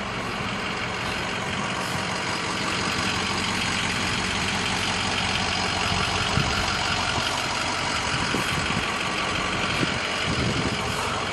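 2007 Ford F550 tow truck's engine idling steadily, with a couple of faint brief clicks in the second half.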